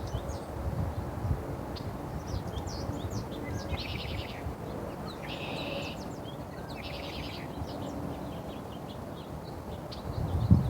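Small songbirds chirping, with three short rapid trills about four, five and a half, and seven seconds in, over a steady low background rumble.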